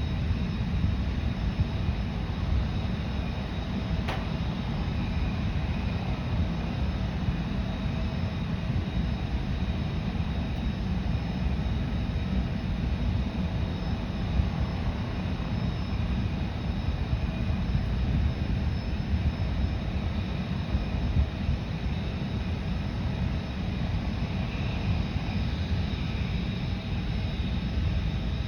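Jet aircraft engines running steadily: a low rumble with a faint, steady high whine over it. There is one brief click about four seconds in.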